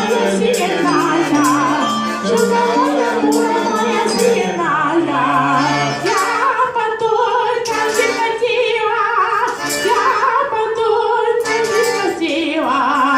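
Live performance of a Russian folk song: voices with vibrato over instruments and a steady beat of clicking hand percussion.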